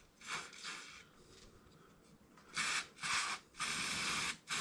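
Rear suspension of a Royal Enfield Himalayan creaking as it is worked, with four rasping strokes in the second half. The noise persists with the dogbone links freshly greased; the owner later traced it to the swing arm shaft.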